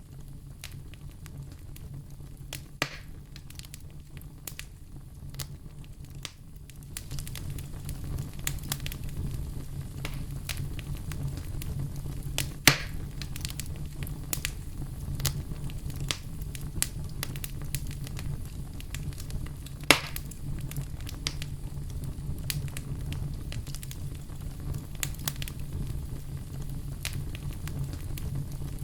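Firewood burning, crackling with scattered sharp snaps over a steady low rumble. It grows louder about a quarter of the way in, and two loud pops stand out, one near the middle and one about two-thirds of the way through.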